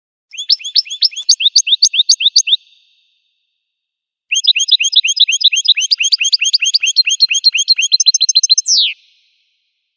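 Goldfinch singing: two phrases of quick, rising chirping notes, about eight a second. The second phrase is longer and ends in one long note that slides down.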